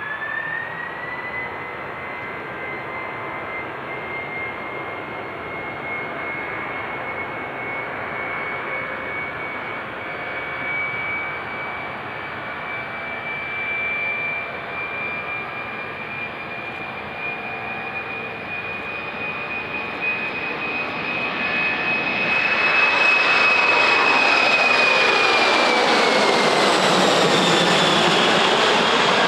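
Boeing 747's four turbofan engines at takeoff power, with a steady high fan whine that climbs slightly. Late on the noise grows louder as the jet passes, its whine falling in pitch and a swooshing sweep running through the rumble.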